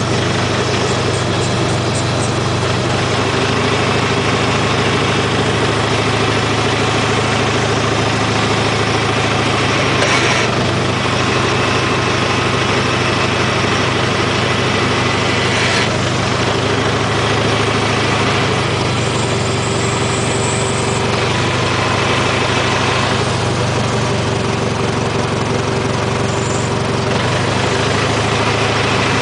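IHC tractor engine running steadily at a low, even speed. Two sharp knocks stand out, about ten seconds in and again about sixteen seconds in.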